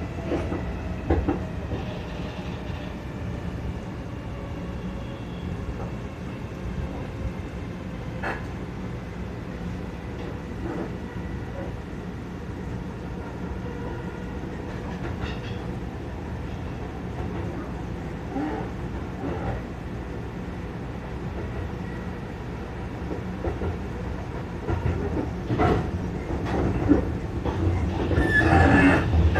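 Seibu 40000 series train running, heard from inside the car: a steady rumble with a few rail-joint clicks and a motor whine that slowly falls in pitch, a running noise that sounds like a train fault. It grows louder and busier over the last few seconds.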